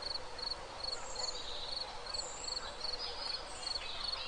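An insect chirping steadily in an even rhythm, about two chirps a second, each chirp a quick run of pulses at one high pitch, with faint higher bird-like chirps now and then.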